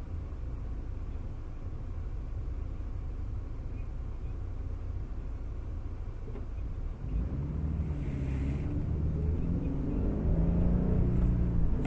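Car engine and road rumble heard from inside the cabin: a low steady rumble while the car sits still, then, about seven seconds in, a louder engine hum that keeps building as the car pulls away.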